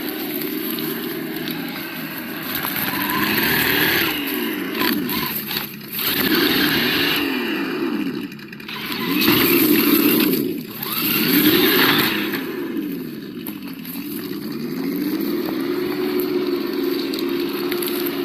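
Sound module of a 1:8 Absima Yucatan RC crawler playing a simulated engine, revving up and dropping back about five times, then holding a steady note near the end, with scraping and crackling underneath.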